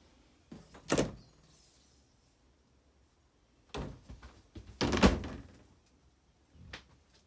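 Doors inside a travel trailer being opened and shut: a sharp knock about a second in, then a run of knocks ending in a loud bang about five seconds in, and a lighter knock near the end.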